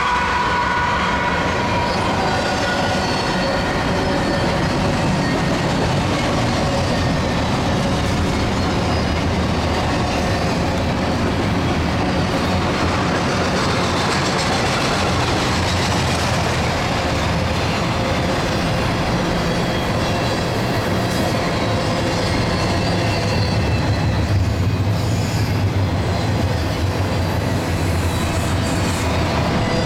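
CSX freight train passing close by: its diesel locomotives go by at the start with a falling whine, then double-stack intermodal container cars roll past with steady, loud wheel-on-rail noise and faint thin whines from the wheels.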